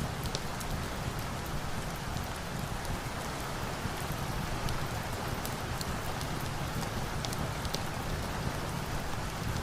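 Steady rain, an even wash of noise, with a few sharp ticks scattered through it.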